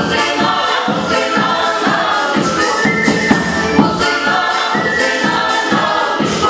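A choir singing a song over instrumental accompaniment with a steady beat.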